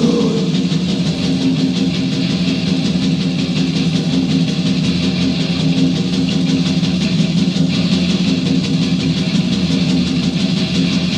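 Instrumental passage of a 1990 death metal demo recording: heavily distorted guitars hold a low, grinding riff over very fast, dense drumming, with no vocals.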